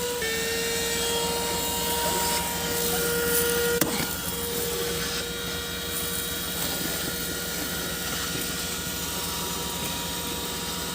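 Plug-in car vacuum cleaner running steadily: a high motor whine over the hiss of air being sucked in. Its pitch drops slightly just after the start, and there is a single short click about four seconds in.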